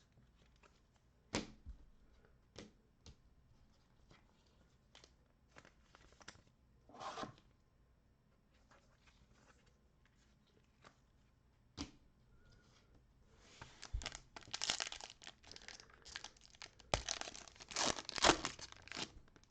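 Plastic trading-card pack wrapper being torn open and crinkled. Scattered light clicks and taps from card handling come first, and the dense tearing and crinkling comes in the last few seconds.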